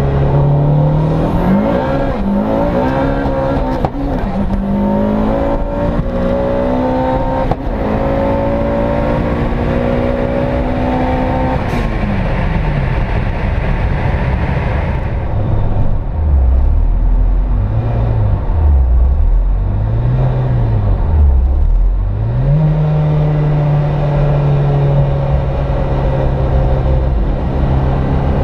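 Turbocharged 2.0-litre four-cylinder engine of a tuned front-wheel-drive Opel Kadett E / Vauxhall Astra Mk2 under hard acceleration. Its note climbs through the gears, with short breaks at the shifts about 4 and 7.5 seconds in. It drops away about 12 seconds in, rises and falls with a few lower revs in the middle, then climbs again to a steady higher note near the end.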